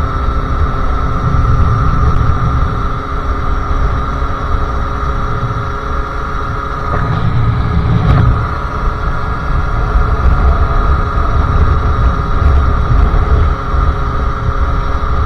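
Sherco SM-R 50cc two-stroke supermoto engine with KRM exhaust and Polini carburettor, running at steady revs while riding, its pitch holding level over an uneven low rumble.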